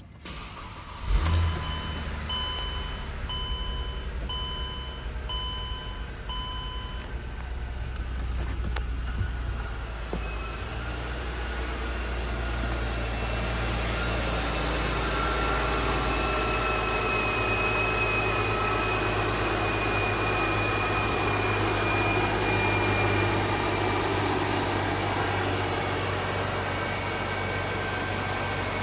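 A 2008 Mercedes E350's 3.5-litre V6 starting about a second in, then idling steadily. Just after it catches, the car's warning chime beeps about six times.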